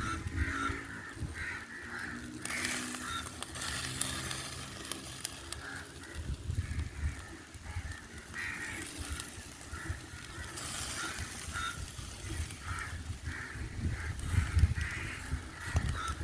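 Birds calling again and again in short, repeated calls, with stretches of hiss.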